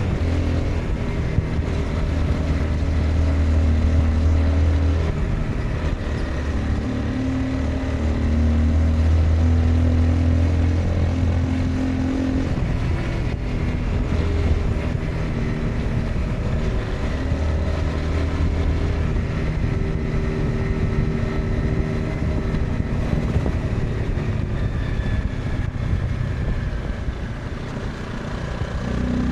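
Honda CBR 250R's single-cylinder engine running on the move, heard from the rider's seat, pulling harder and easing off several times.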